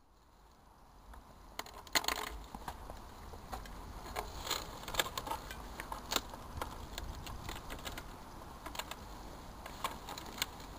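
Burning coffee machine crackling, with irregular sharp snaps and pops over a low rumble, building up over the first two seconds.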